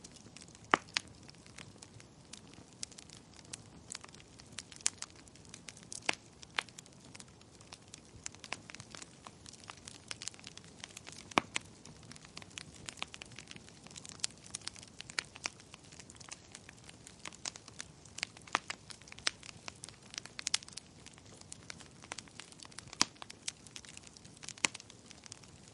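Wood fire crackling in a fireplace: irregular sharp pops and snaps, a few much louder than the rest, over a faint steady hiss.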